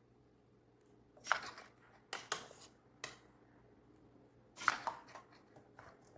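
Kitchen utensils scraping and knocking against cookware: a handful of short scrapes, each under half a second, spaced about a second apart.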